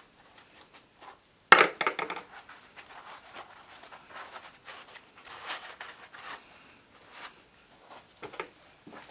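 A sharp knock, then irregular scraping, clicking and crunching as parts are worked loose by hand during the strip-down of an ATV.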